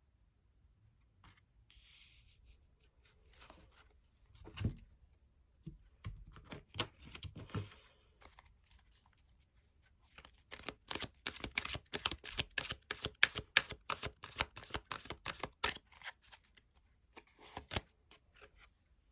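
Tarot cards being handled and shuffled: scattered rustles and taps, then a quick run of sharp card snaps, about four a second, for several seconds in the second half.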